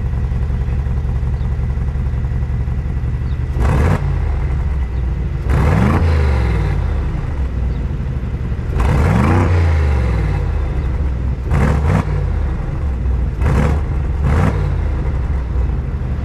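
Mansory G900's 4.0-litre twin-turbo V8 idling while stationary and revved in about seven throttle blips. Two longer revs, about five and nine seconds in, rise in pitch and fall back to idle. The rest are short, quick blips.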